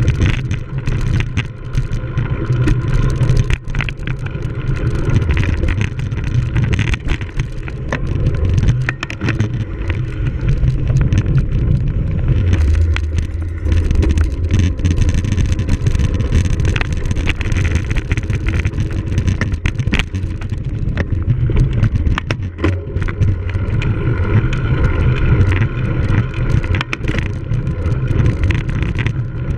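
Cyclocross bike ridden hard over rough ground, with steady wind rumble on the microphone and frequent clicks and knocks from the bike rattling over bumps.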